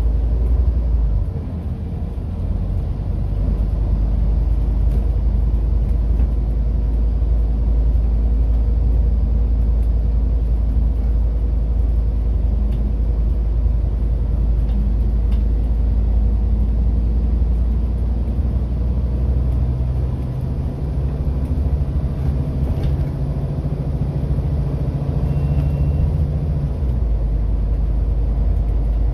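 Scania N230UD double-decker bus with its five-cylinder diesel engine running, a steady low rumble. From about 20 seconds in, a stronger engine note comes in and drops away again about 27 seconds in.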